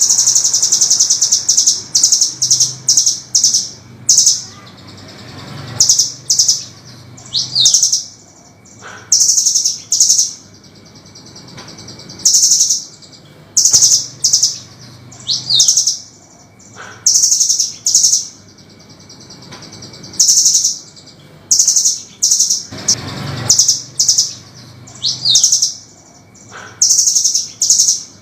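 Velvet-fronted nuthatch calling: rapid, high-pitched trilled phrases repeated in short bursts with brief pauses, now and then a quick rising note.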